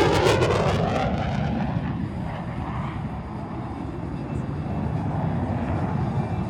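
A military jet passing close by: its loud roar sweeps down in pitch and fades over the first two seconds or so, then settles into a steady, more distant jet rumble that grows slightly louder near the end.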